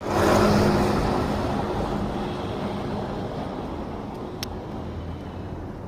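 Motorcycle engine running, loudest at the start and fading steadily, as if moving away. A short sharp click about four and a half seconds in.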